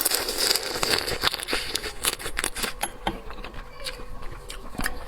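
Close-miked eating of a crunchy fried dough twist (mahua): a fast, irregular run of crisp crackles and clicks from biting and chewing.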